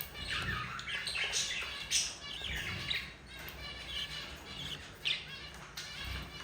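Budgerigars, a mother and her chicks, chirping and squawking while she feeds them: a string of short, scratchy calls.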